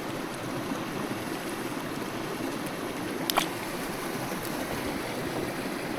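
Small mountain stream running steadily over rocks, an even rush of water, with one sharp click about three seconds in.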